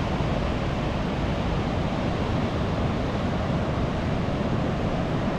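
Ocean surf washing steadily onto the beach, with wind noise on the microphone.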